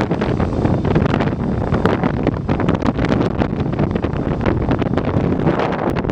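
Strong gusty wind buffeting the microphone, a loud uneven rumbling roar broken by crackling gusts.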